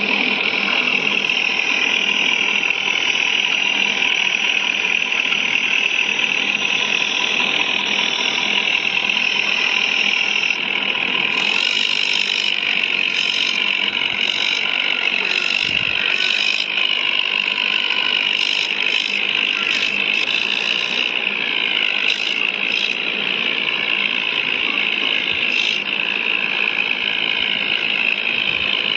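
Tractor engine running steadily, its pitch drifting slowly up and down. Through the middle stretch a series of short hissing bursts sounds over it.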